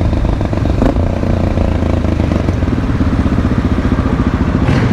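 Motorcycle engine running steadily while riding, with a short click about a second in.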